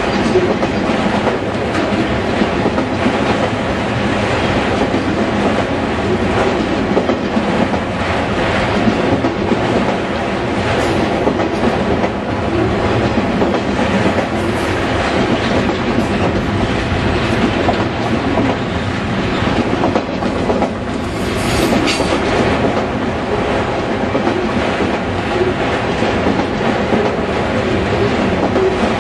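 Freight train of autorack cars passing close by: steady rumble of steel wheels on rail with rhythmic clickety-clack over the joints. A brief, sharper high-pitched screech stands out about three quarters of the way through.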